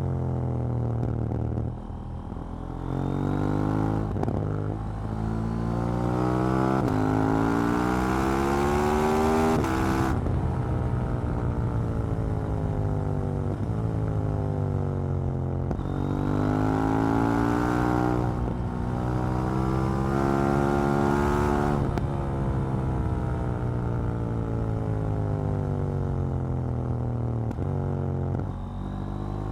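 KTM 790 Duke's parallel-twin engine pulling hard through the gears, its pitch climbing and dropping back at each upshift, then falling away as the throttle is closed; this happens twice.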